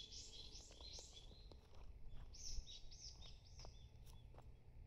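A bird calling: quick runs of high repeated notes, about four a second, one run ending about a second in and another from about two seconds in to nearly four, with a few faint ticks among them.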